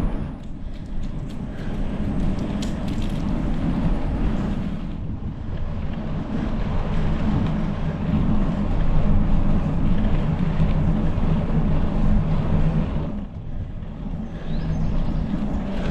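Wind rumbling on the microphone of a moving bicycle, with short lulls about five and thirteen seconds in.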